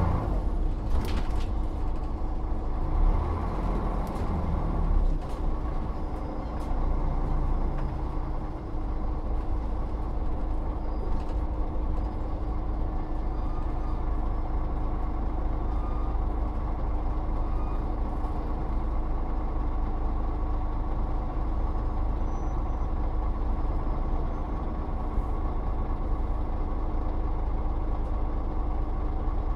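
Volvo Olympian double-decker bus running, a steady engine drone over a low rumble.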